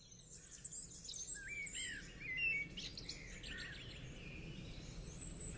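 Several birds chirping and whistling together, with short overlapping calls at different pitches.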